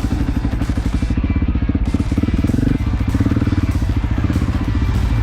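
Dual-sport motorcycle engine running at low, steady revs, with a rapid, even beat of firing pulses.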